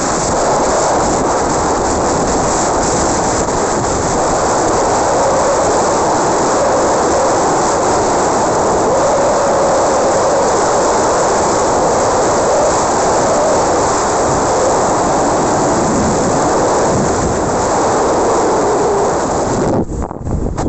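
Strong wind blowing across the microphone, a loud steady rushing noise that drops away briefly near the end.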